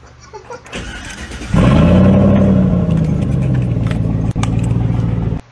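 Car engine started with a screwdriver in place of a key: a short rattle, then the engine catches about a second and a half in, revs up and settles to a steady fast idle. The sound cuts off suddenly near the end.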